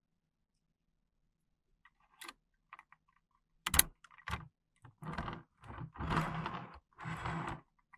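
Plastic toys and packaging being handled: a few light clicks, a sharp click just before the middle, then a run of short rustling, clattering bursts.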